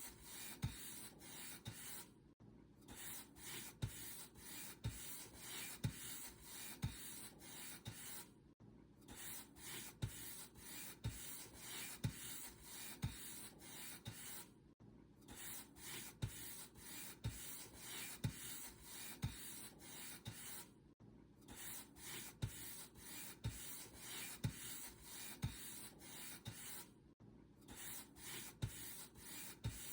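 Paint brush stroked back and forth over a surface, with a repeated dry swishing rub and soft low taps about once a second. The strokes break off briefly about every six seconds.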